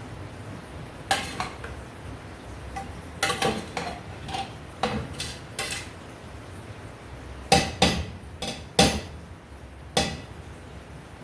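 Kitchen utensils and cookware clinking and knocking against pots and dishes: about a dozen irregular, sharp clinks, the loudest coming a little over halfway through.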